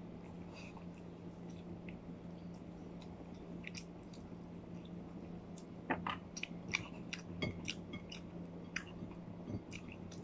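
Close-up chewing and gnawing on chicken on the bone, with scattered sharp clicks and taps that come thickest and loudest about six seconds in. A steady low hum sits underneath.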